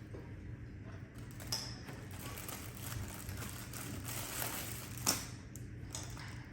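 Plastic parts of a robot vacuum being handled: brushes pulled and fitted, with scattered clicks and rattling and a sharp snap about five seconds in.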